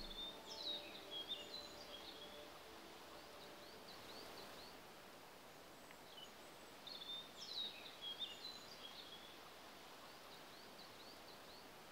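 A songbird singing faintly: two similar phrases of quick, high notes about six and a half seconds apart, each ending in a few short chirps, over a soft steady hiss of outdoor background.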